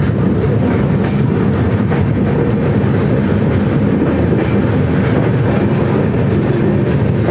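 18450 Baidyanath Dham Express passenger train running, a steady loud rumble of its wheels and coaches on the track.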